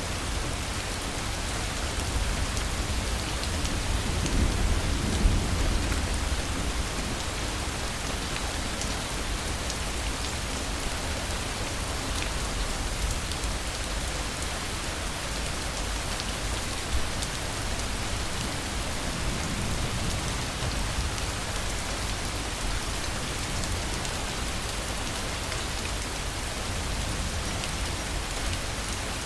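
Heavy rain falling steadily in a thunderstorm. A low rumble of thunder swells a few seconds in, and a fainter one follows about two-thirds of the way through.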